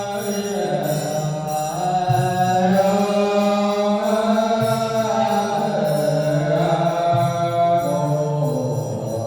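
Buddhist chanting sung in long, slowly gliding tones over a low sustained accompaniment that steps to a new pitch every couple of seconds.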